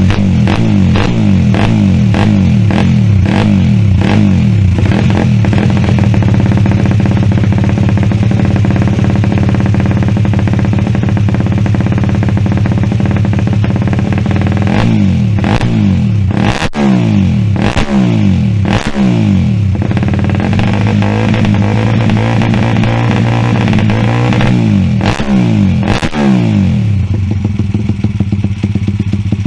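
Honda Monkey Gorilla minibike's 49cc air-cooled single-cylinder four-stroke engine running, steady for about the first half. From about halfway in, the throttle is blipped several times, the revs rising and falling back each time.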